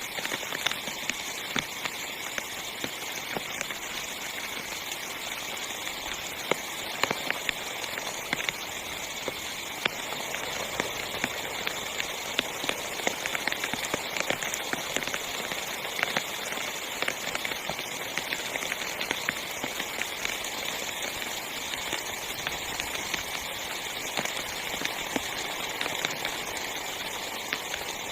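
Heavy rain falling on a tiny tent: a steady hiss of rain with many sharp single drop hits scattered through it.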